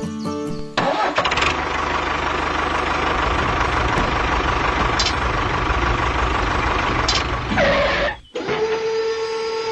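A small motor running loud and rough, starting suddenly about a second in. It cuts off abruptly after about eight seconds and gives way to a steady, even motor whine.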